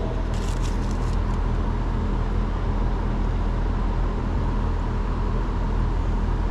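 Steady low machine hum with a constant drone, with a few faint small clicks in the first second or so.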